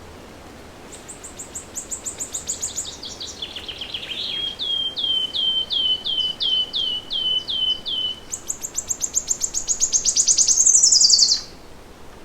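A songbird singing one long, varied song. It opens with a fast high trill that drops in pitch, moves into a run of about a dozen clear downslurred notes at a steady pace, and finishes with another fast, very high trill that swells and then stops abruptly.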